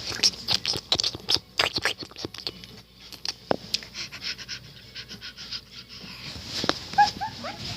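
Quick series of scratching and rubbing strokes, then quieter rustling, with a few short squeaky chirps near the end.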